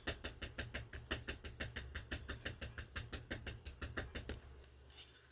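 Quick, even tapping of an ink pad against a rubber stamp as the stamp is inked, about seven light taps a second, fading out near the end.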